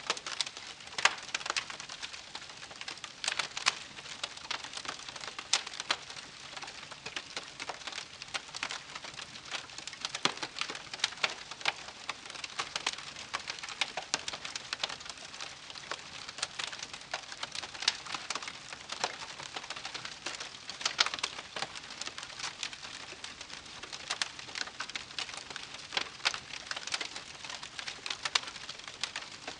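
Burning wood in a campfire crackling and popping: a dense, irregular run of sharp snaps over a faint hiss.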